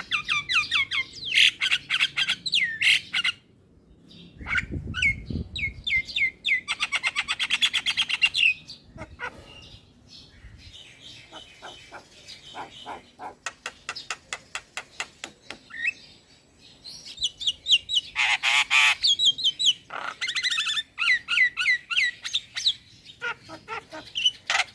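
Young male Javan myna singing in busy, varied phrases: quick runs of downward-slurred whistles, dry rapid rattles and harsh squawks, broken by short pauses.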